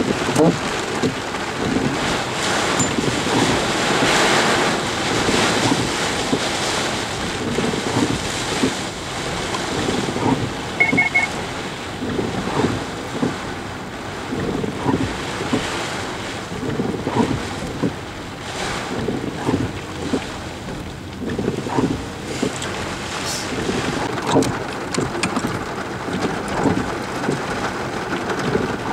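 Heavy rain with wind on the microphone, and water rushing and splashing as vehicles push through deep street floodwater.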